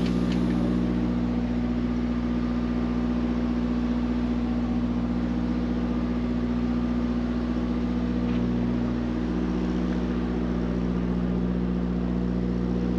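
Mack MP8 13-litre inline-six diesel truck engine idling steadily.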